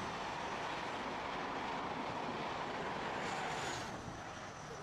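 Trains passing at speed on a mainline: a steady rushing noise of wheels and air that drops off about four seconds in.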